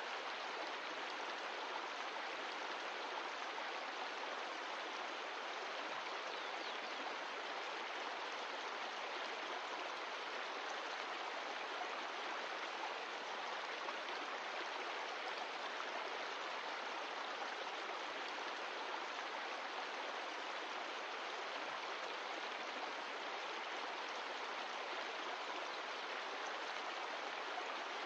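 Mountain stream of glacial meltwater rushing steadily over rocks.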